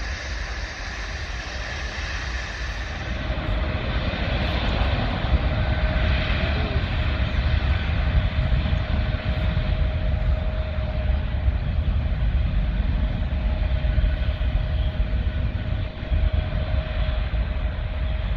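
Antonov An-225 Mriya's six D-18T turbofan engines running at high power: a deep, steady rumble with a steady whine through it, growing louder about three seconds in.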